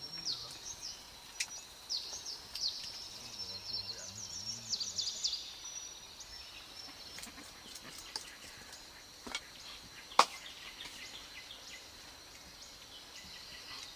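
Forest ambience: small birds chirp repeatedly through the first half over a steady high insect drone. A few sharp snaps break in, the loudest about ten seconds in.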